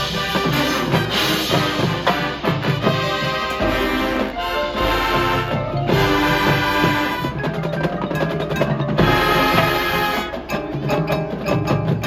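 A high school marching band playing its halftime show, with the drumline's snare and bass drums prominent under the sustained band tones.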